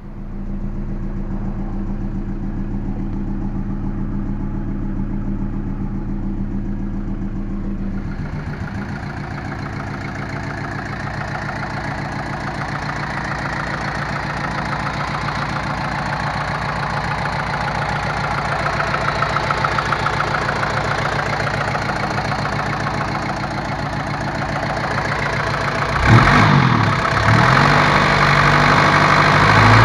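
Mercedes-Benz 240D's OM616 four-cylinder diesel engine idling with a steady diesel clatter. About eight seconds in the sound turns brighter, and near the end the engine is revved up and down several times, louder.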